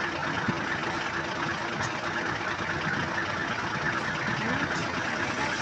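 Safari vehicle's engine idling with a steady hum and a faint steady tone.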